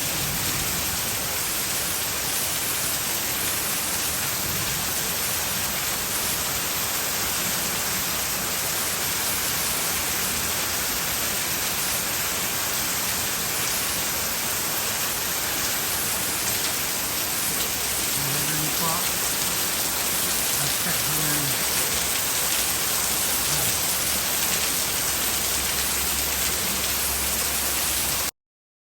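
Heavy rain pouring down steadily, a dense, even hiss; it cuts off suddenly near the end.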